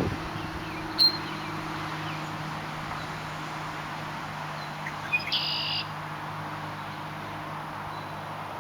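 A grackle gives one short, high call about five seconds in, lasting about half a second, over a steady low hum; a sharp click comes about a second in.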